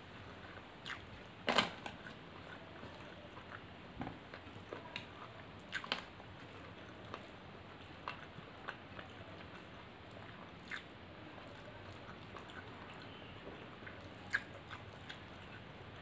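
Close-up wet chewing and mouth sounds of a person eating egg fried rice and chicken curry, with scattered short smacking clicks. The loudest comes about a second and a half in.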